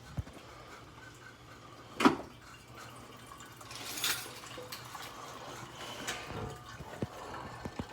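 Water and pet bowls being handled: liquid splashing and trickling, with one sharp knock about two seconds in and a few small clicks.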